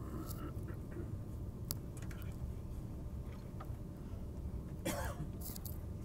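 Steady low rumble of a Thalys train running, heard inside the passenger car, with a few light clicks and a short vocal noise about five seconds in.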